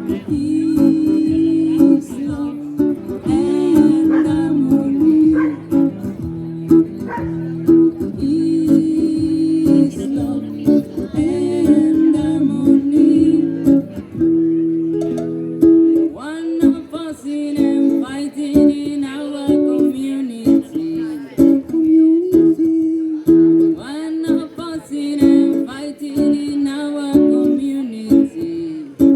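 A song performed live: a singing voice over plucked-string accompaniment.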